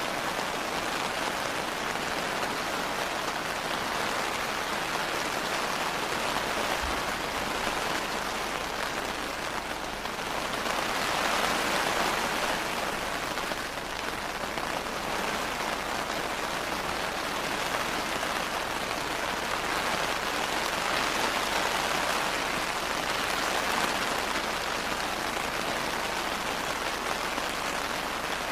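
Steady rain falling, an even hiss of many drops that swells and eases slightly now and then.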